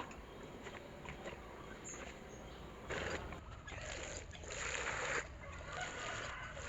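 Water splashing and sloshing as tomato seedlings are watered by hand, with two louder rushes about three seconds and four and a half seconds in.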